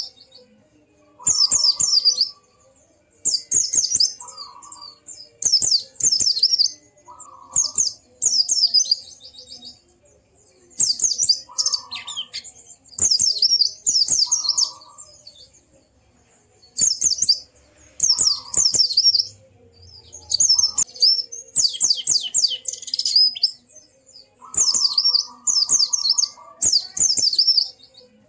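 Pleci (white-eye) singing: bursts of rapid, high twittering about a second long, repeated every couple of seconds with short pauses between, with a lower note under several of the phrases.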